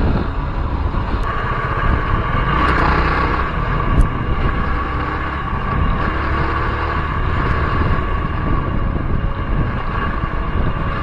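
Motorcycle engine running steadily while riding, under a wash of wind noise on the helmet-mounted microphone. A single sharp tap about four seconds in.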